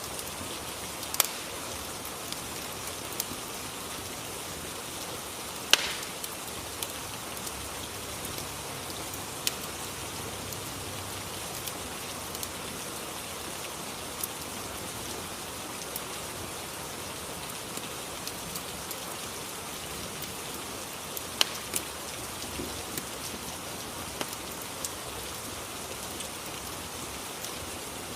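Steady rain ambience, with a dozen or so sharp crackling pops from a fireplace scattered irregularly through it.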